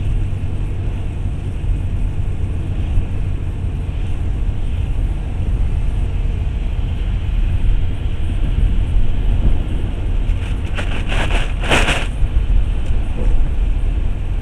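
Car running along the road, heard from inside the cabin: a steady low road and engine rumble. About ten seconds in there is a brief rush of noise lasting a second or two.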